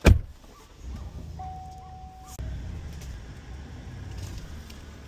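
A truck door shutting with a loud thump, then the truck's engine running with a low steady rumble. A single electronic beep sounds for about a second, about a second and a half in.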